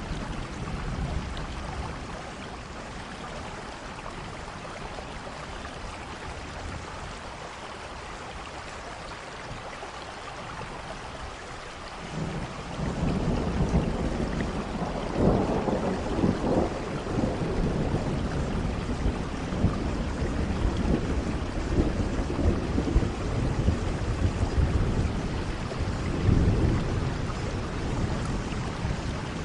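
Steady rain with thunder. For about the first twelve seconds there is only rain, then a long, low rumble of thunder sets in and rolls on, swelling a few times.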